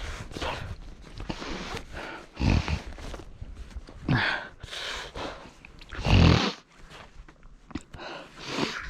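A person breathing hard while clearing snow, with heavy exhales about every second and a half and one short falling grunt, among crunching and scraping noises.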